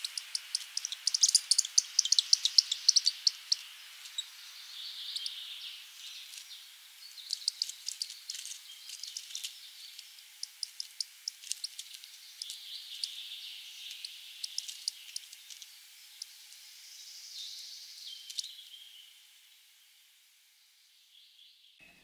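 Bird calls: several runs of rapid, short, high chips, each run lasting a second or more, with softer hiss between the runs. The calls fade out near the end.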